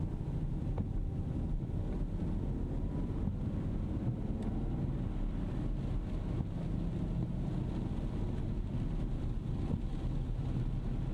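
Steady low rumble of a 2025 Rolls-Royce Ghost Series II on the move, heard from inside the cabin: mostly road and tyre noise, with a couple of faint ticks.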